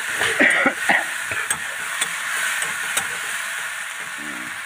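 Onions and spice paste sizzling in hot oil in a karahi while a metal spatula stirs them, scraping and clinking against the pan, most loudly in the first second. The masala is being fried down (koshano) with the onions.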